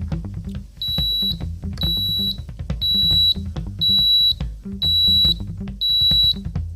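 Background music with a beat, and from about a second in a high electronic beep that sounds for about half a second roughly once a second, like a buzzer alarm.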